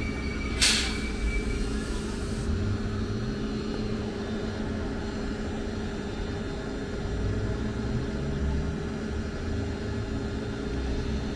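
Two coupled Class 331 Civity electric multiple units humming steadily, with a low, wavering rumble beneath. One sharp click sounds about a second in.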